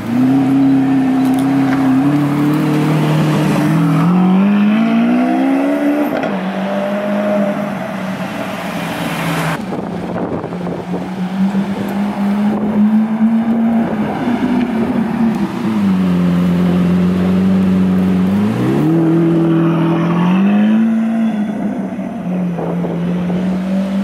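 Lamborghini Aventador's naturally aspirated V12, fitted with Onyx parts, running at low revs as the car moves slowly; its pitch climbs a few seconds in, settles, dips, then rises again near the end as the throttle is blipped.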